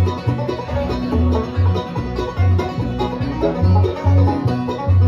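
Bluegrass band playing an instrumental passage: banjo and guitar picking over bass notes about twice a second, with no singing.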